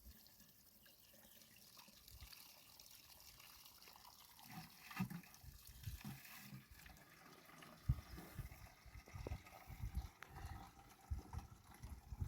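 Water trickling and dripping faintly, with scattered low thumps from about a third of the way in.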